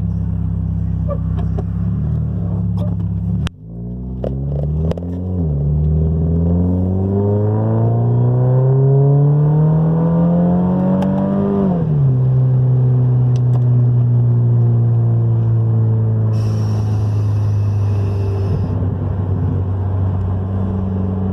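Scion FR-S's flat-four engine heard from inside the cabin while driving: running steadily, then after a brief dip the revs climb smoothly for about eight seconds, fall at a gear change, and hold steady while cruising.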